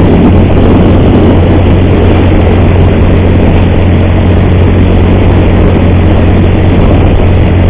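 Motorcycle engine running steadily while riding, with a strange noise the rider calls horrible and puts down to a worn cam chain, worn from hard use at high mileage.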